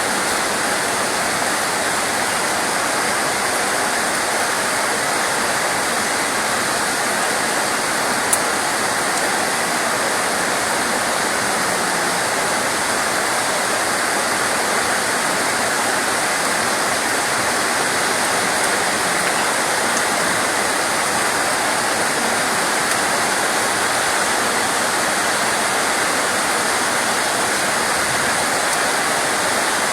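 Steady heavy rain: an even, unbroken rushing hiss. A single brief click sounds about eight seconds in.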